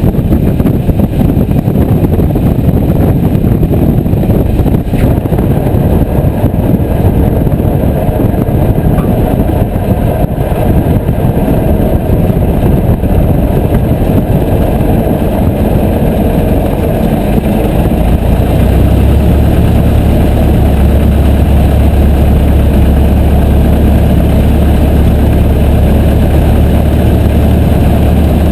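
Piper J3 Cub's light-aircraft engine running, loud and close. About two-thirds of the way through, the sound settles into a steady low drone.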